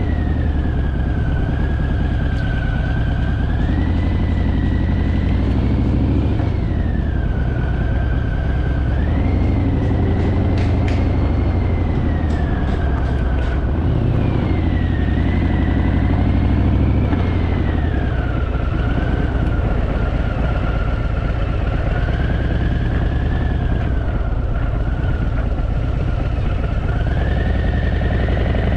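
Harley-Davidson V-twin motorcycle engine running while being ridden down steep streets, with a thin whine that rises and falls several times as the bike slows and speeds up. A few brief clicks about ten to thirteen seconds in.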